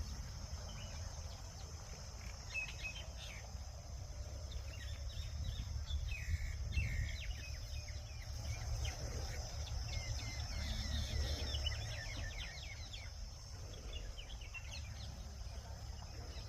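Many small birds chirping and twittering in short repeated calls. Underneath runs a steady high-pitched hiss and a low rumble.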